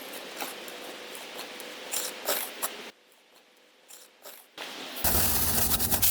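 Steady rain with scattered drips and taps. About three seconds in it cuts off to near silence, and about five seconds in a much louder rush of rain with a low rumble begins.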